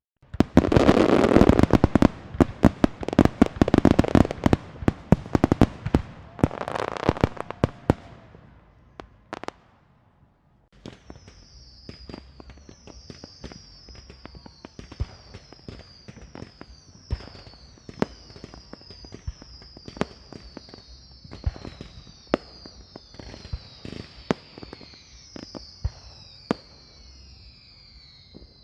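Fireworks: a dense, loud volley of rapid firecracker-like bangs and crackling for about eight seconds, then a short pause. After it come sparser pops and bangs under a high, falling whistle that repeats many times.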